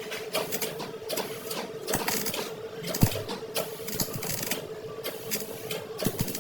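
Irregular light clicks and taps over a steady mechanical hum, with one sharper knock about three seconds in.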